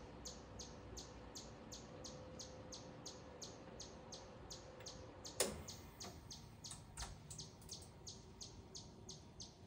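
A small bird repeating a short, high, falling chip note at about three notes a second, steadily. One sharp rustle or click about five and a half seconds in.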